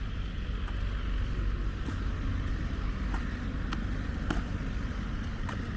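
Car traffic on a town street, a steady rumble, with light sharp clicks every half second to a second.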